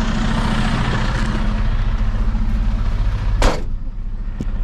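Dump truck's diesel engine idling with a steady hum and a broad hiss. About three and a half seconds in there is a single loud thump, after which the hiss falls away and the engine hum carries on more quietly.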